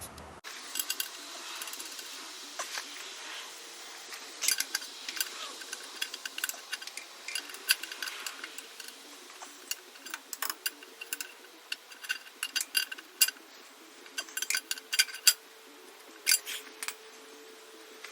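Hand tool working metal: irregular clusters of sharp metallic clicks and clinks, as a wrench or ratchet tightens the oil drain plug on a Shibaura SD 1840 tractor's underside.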